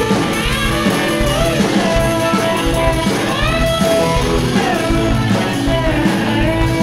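Live rock band playing: electric guitar, bass and drums keep a steady groove while a lead line holds and bends notes.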